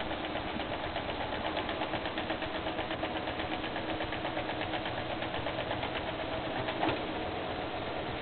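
Bipolar stepper motor from an old scanner, driven at 125 Hz per phase, running steadily with a steady hum and a fast, even ticking. A brief louder click about seven seconds in.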